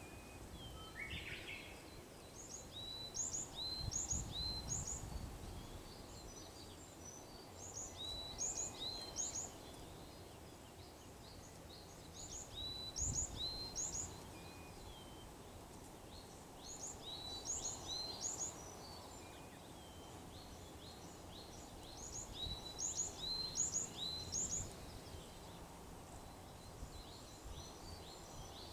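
A small songbird repeating a short two-part call, a hooked chirp followed by a higher one, in runs of three to five with short pauses between the runs. Under it is a low, steady outdoor background with a few brief low rumbles.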